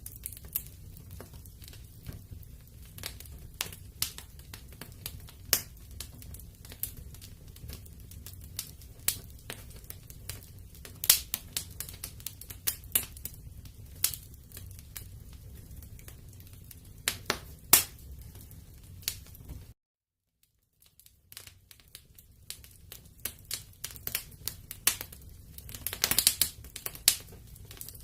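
Wood fire burning in a fireplace: irregular sharp crackles and pops over a low rumble. The sound cuts out for about a second about two-thirds of the way in, then the crackling comes back, with a quick cluster of pops near the end.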